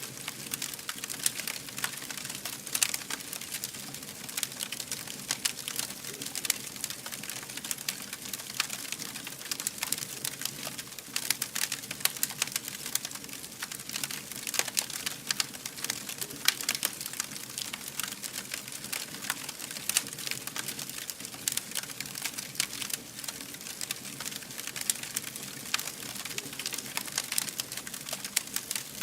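Wood fire crackling: a dense, irregular stream of sharp pops and snaps over a soft steady hiss.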